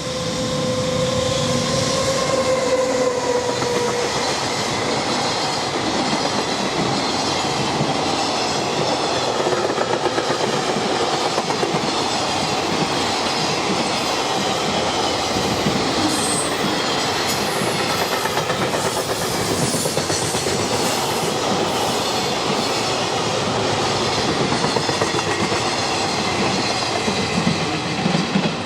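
A JR Freight EF210 electric locomotive and its train of container wagons passing close by at speed, with steady rumbling and wheel clatter over the rail joints. A steady held tone is heard during the first few seconds as the locomotive goes by.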